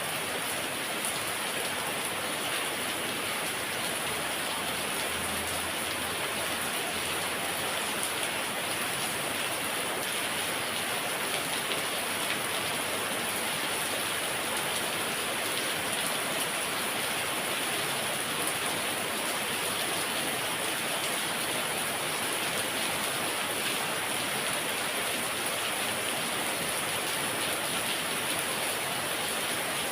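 Heavy rain pouring steadily, a dense, even hiss of drops on surfaces with no breaks or thunder.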